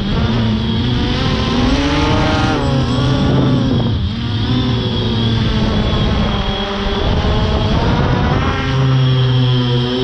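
Electric motors and propellers of small RC airplanes whining, their pitch rising and falling as they change throttle and fly past.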